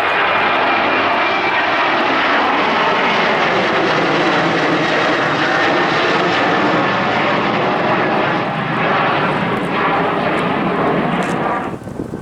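Airplane's engines running loud and steady as it passes close by, with a slow sweeping shift in the sound. It cuts off suddenly near the end.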